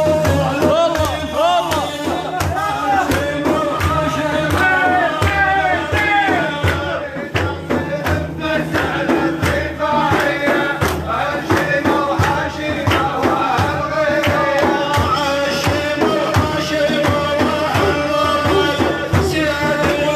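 A male voice sings a devotional madih (Islamic praise song for the Prophet) in a melismatic style over steady hand-drum beats and a held note underneath.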